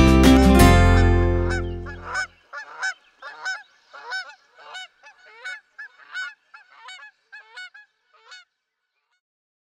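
Guitar music fades out in the first two seconds. It is followed by a series of short honking bird calls, about a dozen, roughly half a second apart, growing fainter and ending about eight seconds in.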